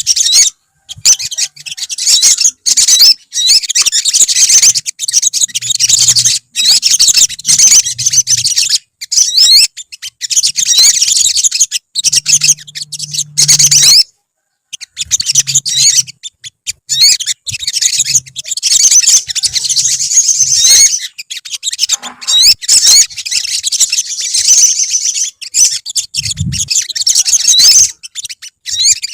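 Several olive-backed sunbirds singing together: rapid, high-pitched chirps and twittering trills overlapping densely, broken now and then by abrupt brief silences.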